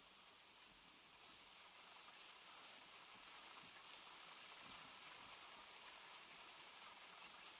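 Rain falling steadily, a faint, even hiss of drops on a surface.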